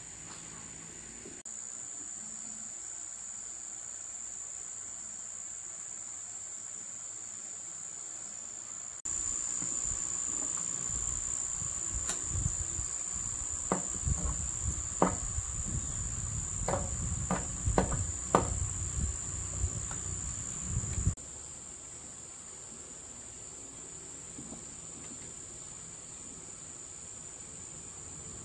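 Insects chirring in one steady high-pitched drone. From about a third of the way in until about three quarters through, a low rumble and a series of irregular knocks and clicks sound over it.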